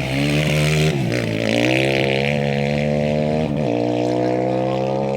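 A racing vehicle's engine running hard at high revs. Its pitch dips about a second in and climbs back, and shifts briefly again past the three-second mark.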